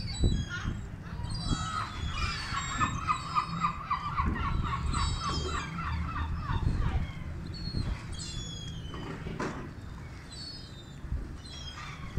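Birds calling: a rapid run of evenly repeated call notes lasting about five seconds, with short high chirps before, during and after it, over a steady low rumble.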